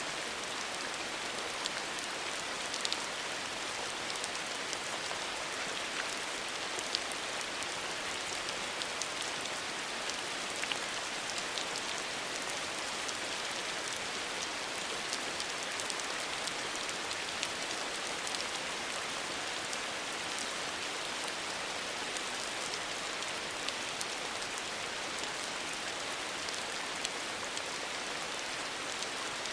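Steady rain falling from a traditional Korean house's roof edge: an even hiss of rainfall with scattered sharp ticks of individual drops striking below.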